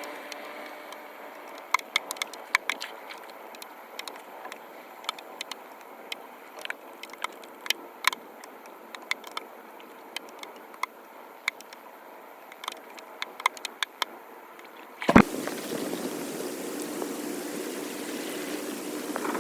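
Water trickling and flowing, with many scattered sharp clicks and knocks from debris and tools at a storm drain. About fifteen seconds in comes a loud knock, and then steady, louder rushing water takes over.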